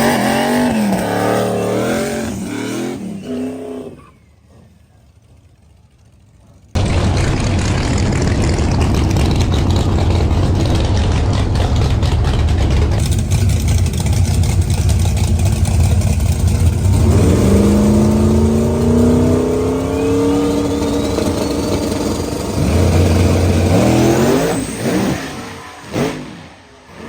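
Drag-racing truck engines revving, then running loud at full throttle after a sudden start about seven seconds in, with the pitch rising in steps toward the end.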